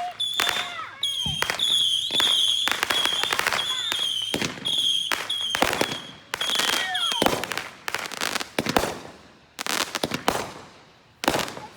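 Consumer fireworks going off: a fast string of sharp bangs and crackles under a steady high-pitched whistle for about the first seven seconds, then separate bangs spaced further apart.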